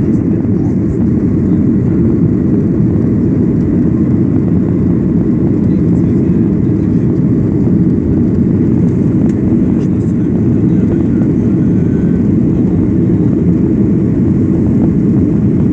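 Jet airliner's engines and airflow heard from inside the passenger cabin: a loud, steady low rumble with no change in level.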